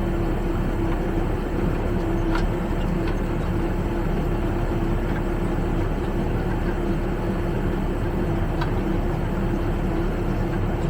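Backhoe loader's diesel engine running steadily, driving the hydraulic rollers of a Gyro Star roll screening bucket, with a constant hum. Two faint clicks come about two seconds in and near the end.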